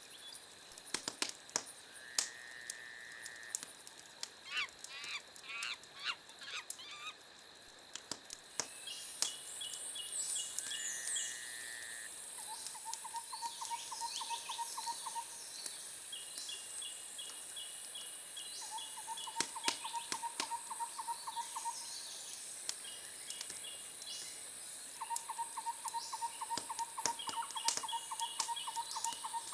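Wood fire crackling with scattered sharp pops, overlaid by animal calls: rapid pulsing trills a couple of seconds long that recur every few seconds, and a quick run of chirps about five seconds in.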